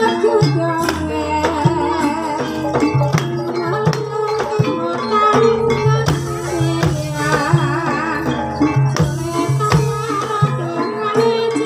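Live Javanese gamelan music accompanying an ebeg hobby-horse dance: steady drum strokes and metallic pitched melody lines, with a voice singing over it.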